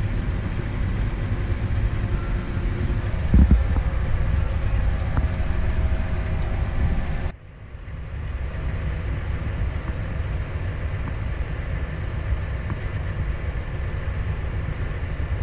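Farm machinery engine running steadily with a low rumble, with a brief thump about three and a half seconds in. The sound cuts off abruptly about seven seconds in, then a similar steady engine rumble resumes.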